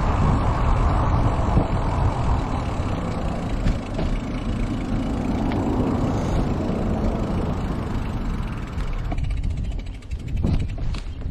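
Steady low rumble of wind buffeting the microphone while riding a bicycle, easing about nine seconds in.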